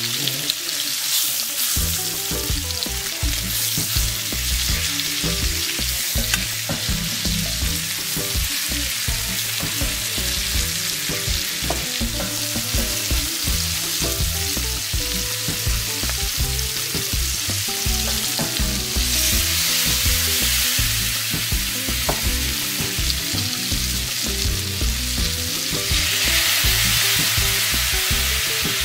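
Chicken breasts sizzling as they fry in hot oil and butter in a pot. The sizzle grows louder about two-thirds through and again near the end as sauces are poured into the hot pan.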